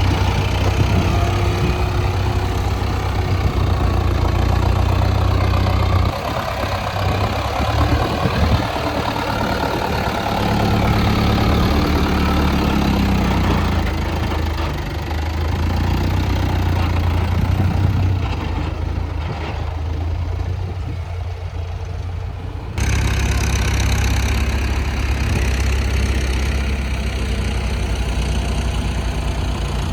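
Heavy diesel engines of an excavator and farm tractors running steadily. The engine sound shifts about six seconds in and changes abruptly about 23 seconds in.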